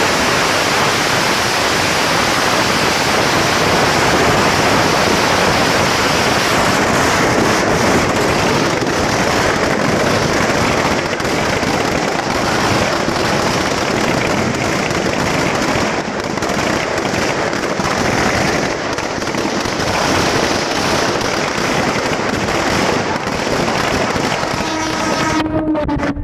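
Firecrackers packed into a burning Ravana effigy going off in a dense, continuous crackle. A few pitched sounds join near the end.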